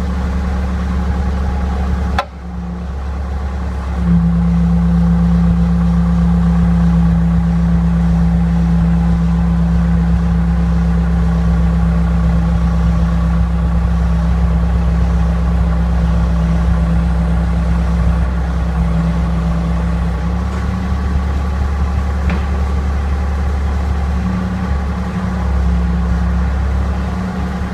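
A loader's engine running steadily. About four seconds in it rises to higher revs and holds them steady until about twenty seconds, then drops back to a rougher, lower running.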